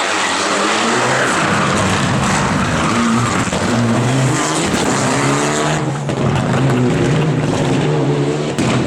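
Rally car engine revving hard, its pitch rising and falling as it accelerates and lifts, with skidding tyre noise and a sharp bang near the end.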